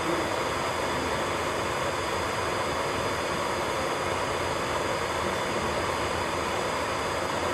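Steady whirring noise from electric nail-care equipment running continuously, an even hiss with a faint high thin tone above it.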